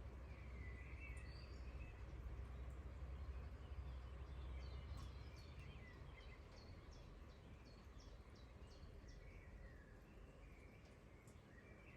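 Faint rain falling, with birds chirping now and then and scattered light clicks. A low rumble under it fades out about halfway through.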